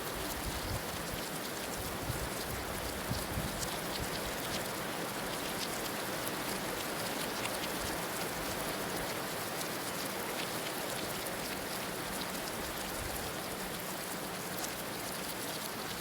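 Heavy rain falling steadily, a dense even hiss with fine drop ticks, and some low rumbling swells in the first few seconds.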